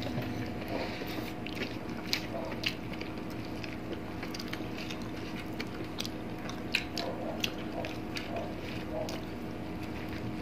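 Close-up eating sounds of people chewing rice and fried fish by hand: wet chewing and mouth noises, with many short, sharp clicks and smacks at irregular moments. A steady faint hum runs underneath.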